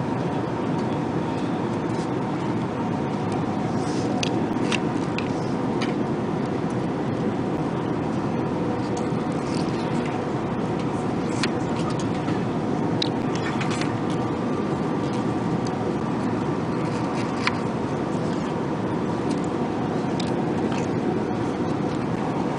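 Airbus A380 cabin noise in flight: an even roar of engines and airflow with a faint steady hum, and a few light clicks and taps scattered through it.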